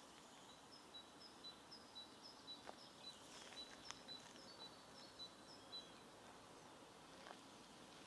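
A small songbird singing faintly, repeating a quick two-note phrase, a higher note then a lower one, about twice a second for several seconds before stopping.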